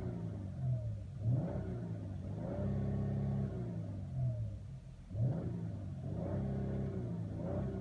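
2015 Dodge Charger Rallye's 3.6-litre V6 revved in place through the stock exhaust: several quick blips, a rev held for about a second, then a drop back and a fresh run of blips about five seconds in.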